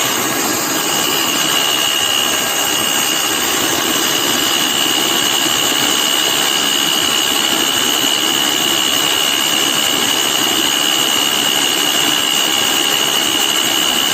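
Electric paddle mixer running steadily at full speed, stirring a batch of waterproofing mix, with a high steady motor whine over the churning.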